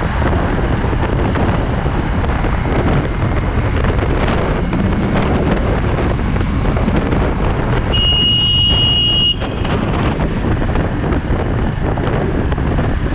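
Wind rushing over a motorcycle rider's camera microphone, with engine and road noise underneath. About eight seconds in, a high steady tone sounds for about a second and a half.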